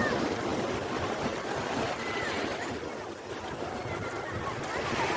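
Sea waves washing onto the shore, a steady surf noise.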